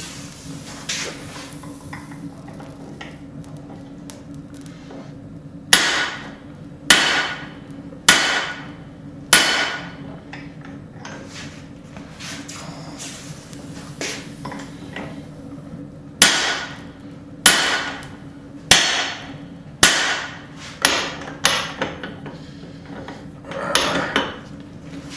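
Hand hammer striking a steel punch to drive the eye through a hot steel hammer-head blank. The strikes are sharp and each rings briefly: four blows about a second apart, then a pause, then a longer run of faster blows in the second half.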